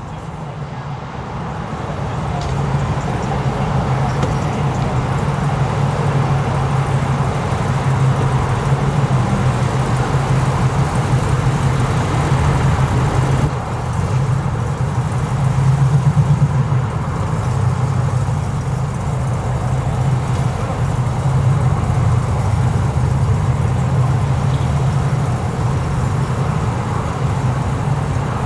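Car engine running steadily close by, getting louder over the first few seconds and swelling briefly a little past halfway through.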